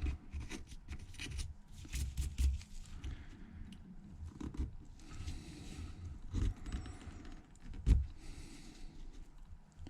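A hand tool scraping and crunching leftover shards of back glass away from around an iPhone's camera bezel, in irregular small scrapes with sharp clicks, one louder click near the end.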